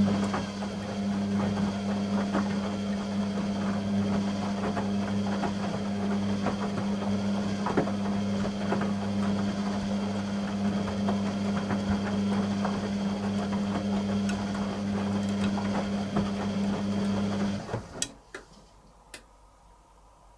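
Beko WTG620M1 washing machine running: a steady low mains-type hum with light rattling and ticking, which cuts off suddenly near the end, followed by a few sharp clicks.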